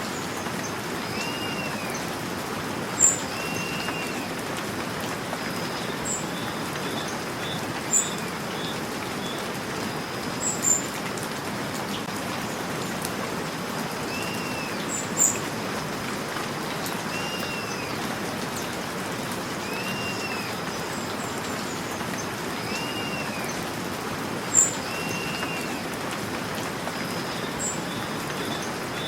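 Steady rain falling, with birds calling over it: a short arched chirp repeated every few seconds, and five sharp, high chirps that stand out as the loudest sounds.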